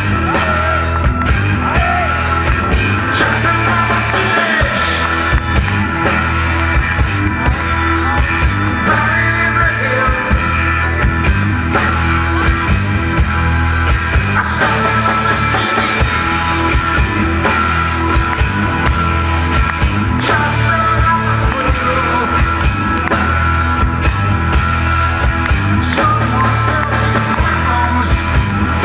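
Live rock band playing an instrumental passage, drums keeping a steady beat under guitar and keyboards.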